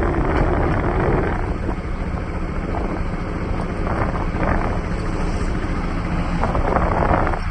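Motorcycle under way, its engine running steadily with wind rushing over the microphone.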